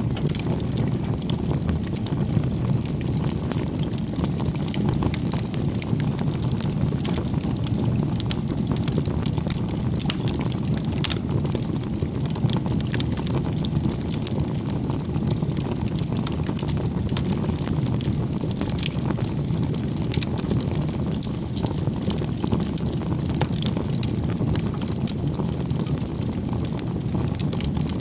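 Wood fire crackling: a steady low rumble of burning with many small, irregular sharp crackles and pops.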